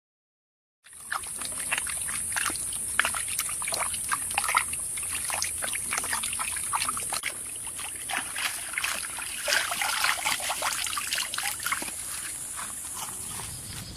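Water trickling and splashing in many small irregular splashes, over a steady high hiss, starting about a second in after a moment of silence.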